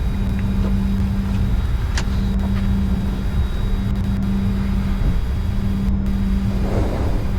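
Steady cockpit noise of a Bombardier Challenger 605 holding on the runway with its engines at idle: an even rush with a steady low hum, and a faint click about two seconds in.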